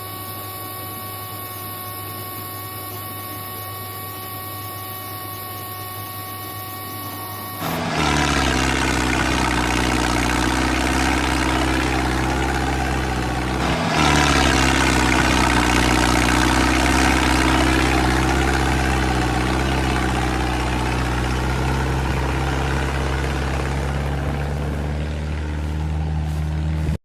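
A steady electrical hum, then about eight seconds in the small motor of a homemade mini tractor model starts and runs with an even mechanical drone. It cuts out for a moment around fourteen seconds, starts again, and runs on, its pitch sinking slightly near the end.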